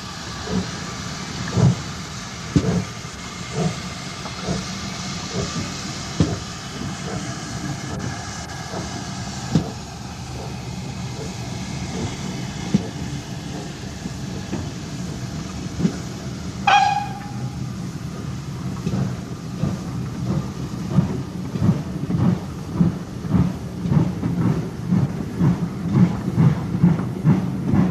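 Steam locomotive working under a steady steam hiss, its exhaust beats slow at first and quickening to about two a second in the last several seconds. A brief whistle toot sounds about two-thirds of the way through.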